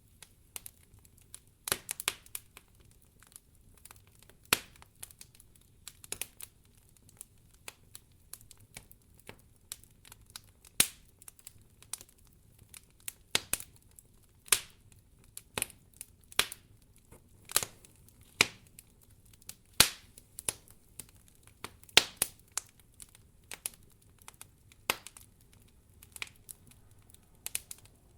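Wood fire crackling in a fireplace: irregular sharp pops and snaps, a few much louder than the rest.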